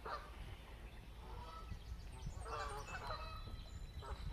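Birds calling: several short, harsh nasal calls, one at the start and a group about two and a half seconds in, with a few faint high, thin chirps between them.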